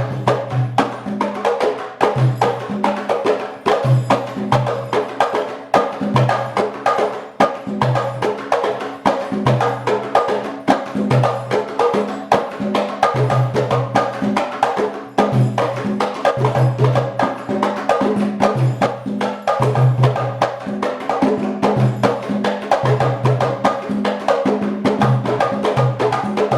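Afro-Cuban percussion ensemble playing a Congo (Palo) rhythm: dense, steady clicking of sticks on wood over low drum tones that recur in a regular pattern.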